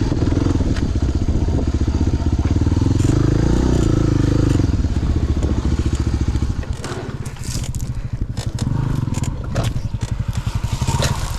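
Motorcycle engine running with a fast pulsing beat, heavier for the first five seconds and easing off at about six seconds. Crunching and clattering in the second half, typical of tyres on gravel and rock.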